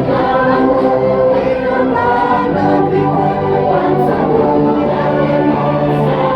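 Many voices singing a song together in chorus, holding long notes.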